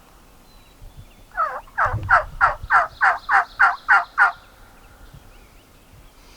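Wild turkey tom gobbling once: a loud, rapid run of about nine rattling notes that starts about a second in and lasts about three seconds.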